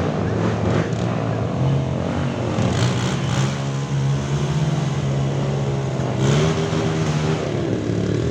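Off-road trail motorcycle engines running hard, one holding a steady pitch for a few seconds and then revving up sharply about six seconds in.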